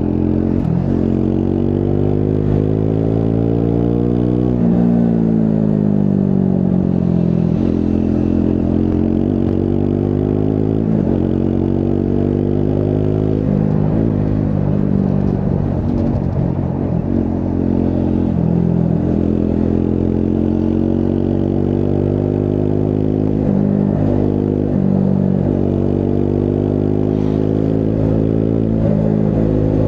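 Triumph Scrambler 400 X's single-cylinder engine under way, the revs climbing and then dropping back several times, the first and biggest climb falling away about four seconds in.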